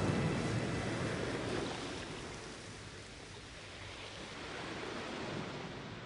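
Rushing water: a steady noisy rush that fades down, swells slightly about five seconds in, then fades again.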